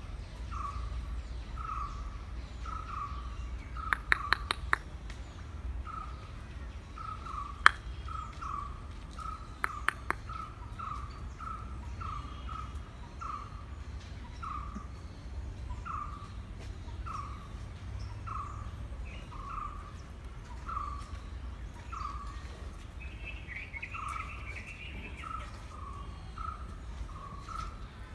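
A bird repeating one short call note over and over, about one and a half times a second, steady and even. A few sharp clicks cut in, four in quick succession a few seconds in, one around the middle of the first half and three more soon after, and another bird chatters briefly near the end.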